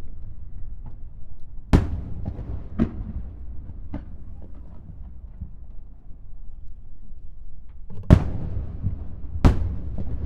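Aerial firework shells bursting in sharp booms, about five of them, with two close pairs about two seconds in and near the end. A low rumble of echoes and distant bursts carries on between them.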